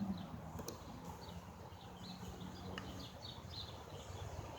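Faint birds chirping in short, repeated calls over a low background of outdoor noise.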